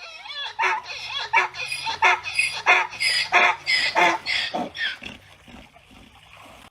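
An animal giving a quick run of short pitched calls, two or three a second, that die away after about five seconds.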